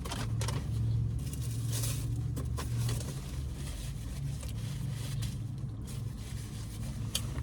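Close-up eating sounds: chewing and scraping or crinkling handling noises, busiest in the first few seconds and sparser after, over a low steady hum.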